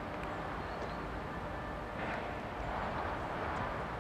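A train approaching from a distance: a steady low rumble that swells a little about two seconds in.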